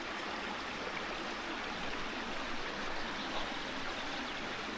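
Brook running over stones: a steady rush of flowing water.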